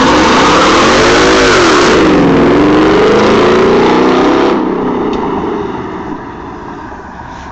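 2012 Ford Mustang GT's 5.0 V8 through a Borla ATAK exhaust, revving hard during a burnout, its pitch climbing, dipping and climbing again over the loud hiss of spinning tires. After about four and a half seconds the hiss stops and the engine sound fades steadily.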